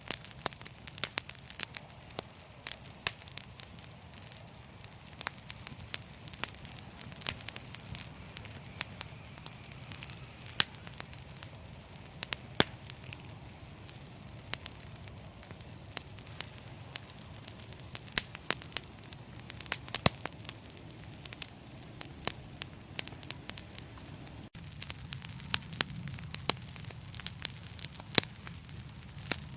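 Wood fire crackling steadily, with many sharp irregular pops and snaps over a low steady rumble of the flames.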